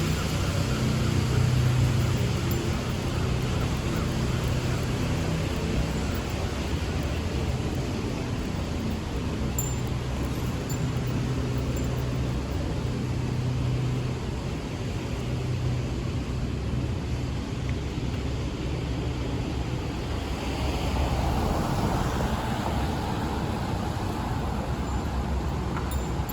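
City street traffic: a motor vehicle's engine running with a steady low hum over general road noise, and a louder swell about twenty seconds in.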